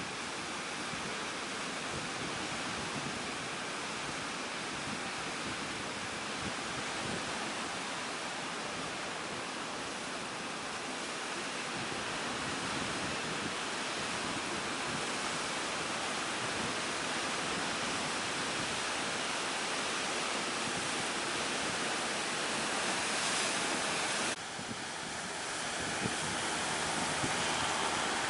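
Ocean surf with wind on the microphone: a steady rushing noise that drops suddenly near the end and builds back up.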